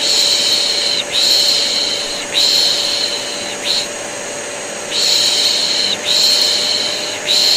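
Baby-soothing shushing ('shh, shh, shh, sh'): three long shushes and a short one, then a pause of about a second before the pattern repeats, over the steady hum of a running vacuum cleaner.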